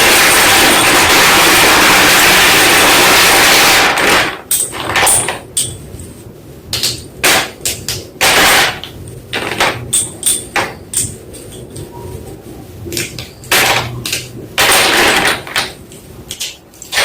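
White school chalk block being crunched close to the microphone: a dense, continuous loud crunching for about the first four seconds, then separate sharp crunches at irregular intervals.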